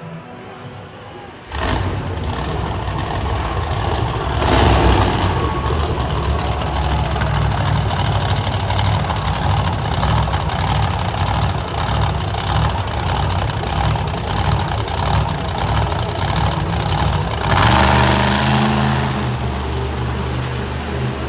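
A monster truck's engine cuts in suddenly about a second and a half in and runs loud and rough. The revs rise about three seconds later and again near the end.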